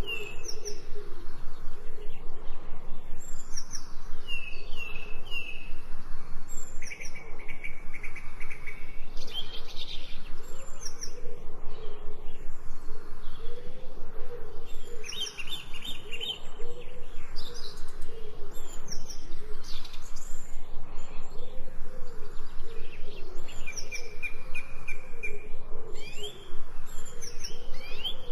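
Several birds chirping and trilling, short sweeping calls and repeated rapid notes scattered through, with a lower call repeating over and over beneath them. Under it all runs a steady even hiss of rain.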